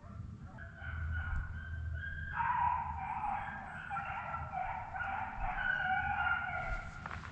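A pack of hunting hounds baying, several voices overlapping in long, drawn-out howls that start about half a second in.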